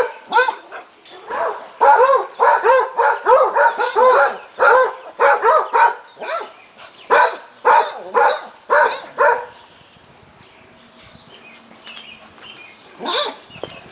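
Dogs barking at play: a quick run of short, high barks, two or three a second, that stops about two-thirds of the way in, with one more bark near the end.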